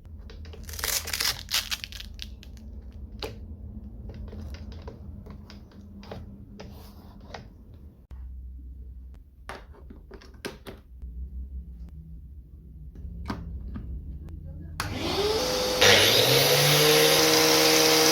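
Scattered clicks and knocks of handling over a low hum, then about 15 s in an angle grinder is switched on: its motor whine rises quickly in pitch and settles into a steady, loud run.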